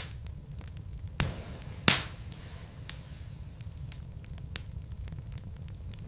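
Wood fire in a fireplace burning with a steady low rumble and scattered crackles and pops, two sharper pops a little over a second in and just before two seconds.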